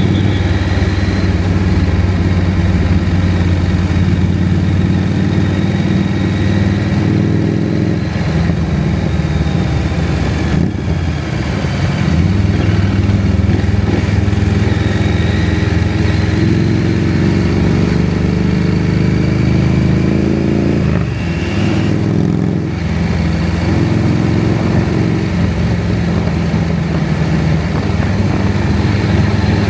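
KTM 790 Adventure's parallel-twin engine running steadily under way. The engine note dips briefly twice, about ten seconds in and again about twenty seconds in, where the pitch falls as the throttle comes off.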